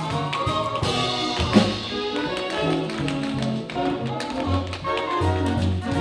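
Tap shoes striking the stage in quick rhythmic runs over the accompanying band music.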